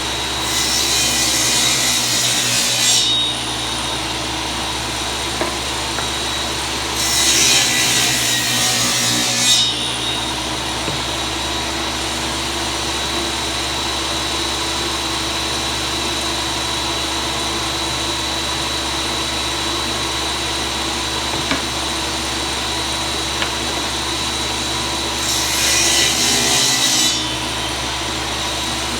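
A power tool runs steadily and cuts into wood three times, cutting the grooves in the side pieces that the plexiglass will slide into. Each cut is a loud rasping burst over the hum: one about a second in lasting about two seconds, another around seven to nine seconds, and a last one near the end.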